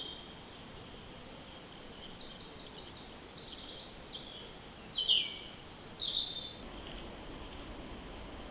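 High-pitched squeaks and chirps from a small animal, a scatter of short calls with two louder ones about five and six seconds in, one sliding down in pitch, over a steady faint hiss.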